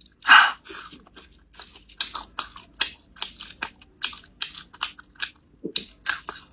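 Close-miked eating: one loud sharp bite just after the start, then quick, repeated wet chewing and mouth clicks.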